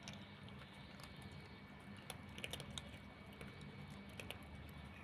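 Cats chewing dry kibble: faint, irregular crunches and clicks over a low steady hum.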